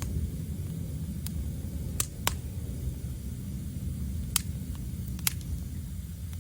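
Wood fire crackling: a handful of sharp, isolated pops, the loudest a pair about two seconds in and single ones around four and a half and five seconds in, over a low steady rumble.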